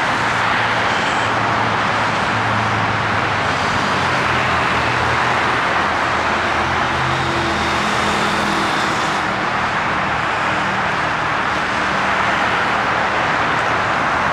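Steady traffic noise from a busy freeway: a continuous rush of tyres with a low hum of passing car and truck engines.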